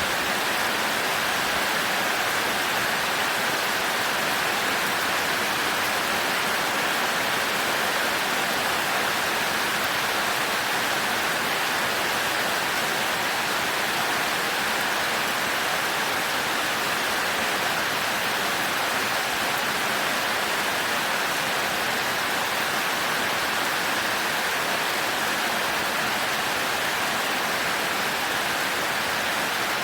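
Heavy rain falling steadily, an even hiss of downpour with no thunder.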